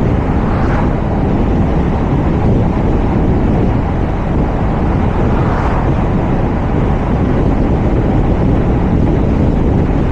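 Wind rushing over the microphone of a camera mounted on the roof of a moving car, over a steady low road rumble. Two brief swooshes pass, about half a second in and just past the middle.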